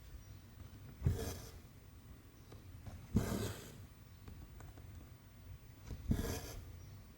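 Needle and cotton thread pulled through 14-count cross-stitch fabric, three times, roughly every two to three seconds: each stitch a soft tap as the needle pierces the canvas, then a brief scratchy rasp as the thread is drawn through.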